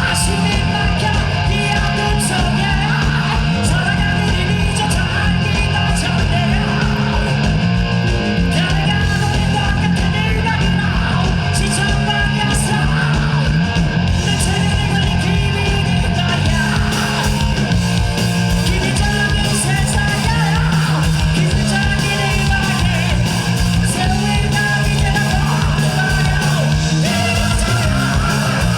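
Live rock band performing loudly, with a singer's voice over electric guitar, bass and a steady drum beat.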